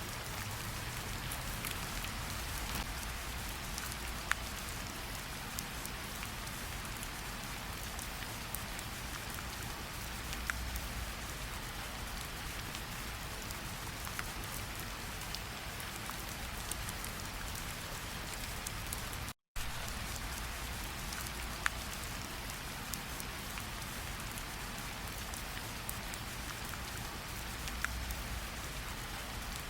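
Steady rain falling in a tropical forest, pattering on the ground and on water, with single nearby drops ticking now and then. The sound cuts out completely for a moment about two-thirds of the way through, then resumes.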